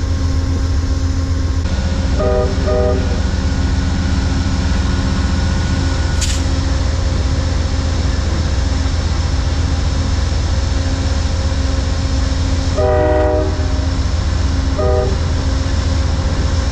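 Amtrak passenger diesel locomotive running with a steady low rumble while its horn sounds two short blasts a couple of seconds in, the signal that the train is about to move off. A longer blast and another short one follow near the end, with a brief hiss about six seconds in.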